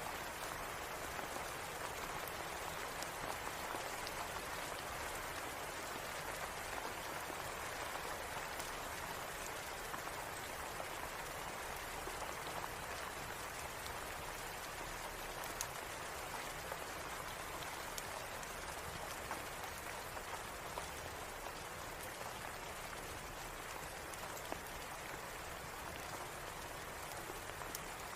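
Steady rain falling in an even hiss, with scattered faint ticks of individual drops.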